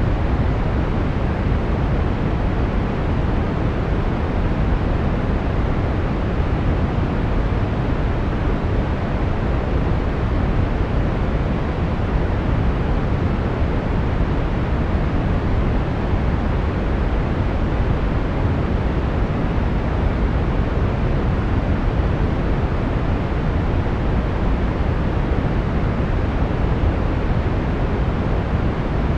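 Steady brown noise: an even, unchanging rumbling hiss, strongest in the bass and fading toward the treble, with no tones or events.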